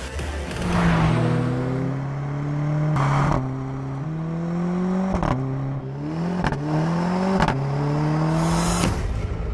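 Mercedes-AMG A 45's turbocharged four-cylinder engine accelerating hard through the gears. Its pitch climbs and then drops sharply at each upshift, about four times, with a short crack at every shift. The sound cuts off near the end.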